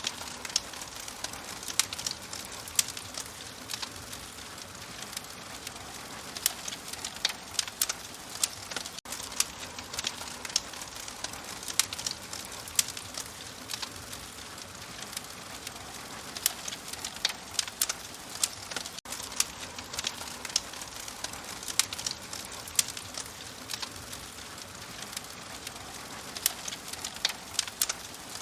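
Open fire crackling: a steady soft hiss with frequent irregular sharp pops and snaps, and a brief dropout about every ten seconds.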